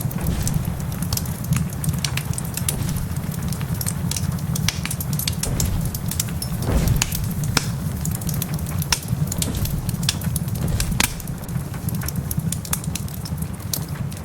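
Wood fire crackling with many sharp pops over steady rain and a continuous low rumble. A heavier, deeper pop comes about halfway through.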